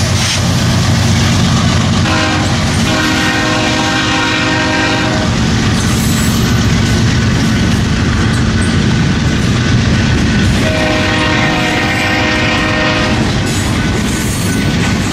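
Freight train's locomotive air horn sounding a chord in two long blasts of about three seconds each, one starting about two seconds in and the other about ten and a half seconds in, over the steady rumble of several diesel locomotives and their wheels clacking on the rails.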